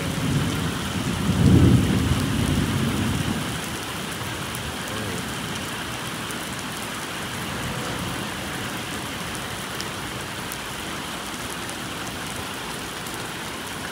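Heavy rain pouring down steadily, with a low roll of thunder that swells about a second in, peaks at about a second and a half and dies away by about four seconds.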